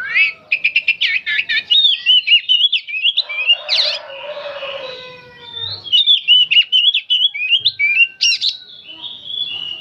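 Oriental magpie-robin singing a fast, continuous run of varied whistles, trills and chattering notes. Around the middle, a harsher, lower call slides downward.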